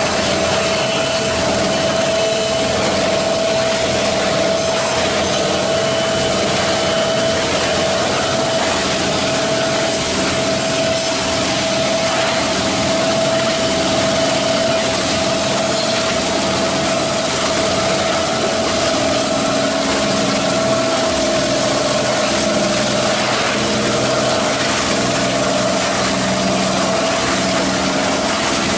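Plastic bottle recycling washing line running: a loud, unchanging machinery noise with a steady hum held throughout.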